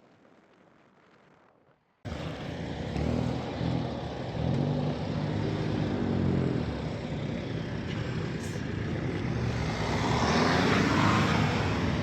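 Near silence for about two seconds, then a car's engine cuts in suddenly, running under load with its pitch climbing and dropping as it accelerates, over steady road and wind noise.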